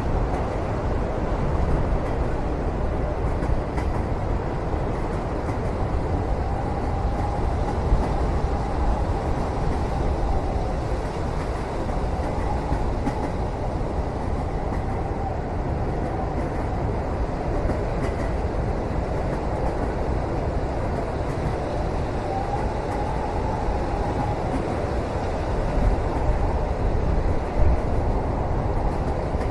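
Steady rumble of a moving train heard from inside a passenger cabin, with a faint wavering whine at times and a couple of light knocks.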